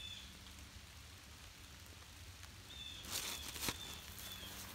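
Faint light rain sprinkling in woodland, with crunching and rustling, likely steps on dry leaf litter, starting about three seconds in.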